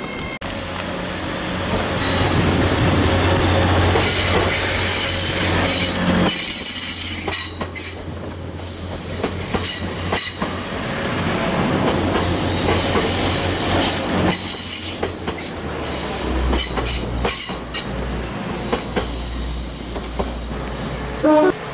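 A train moving through the station, its wheels squealing on the rails in high-pitched spells that come and go, over a steady low hum from the train. A short, louder sound with rising tones comes near the end.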